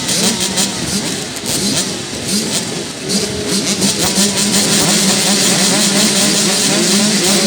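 Several dirt bike engines revving up and down, with one engine holding a steady note from about three seconds in that grows slightly louder.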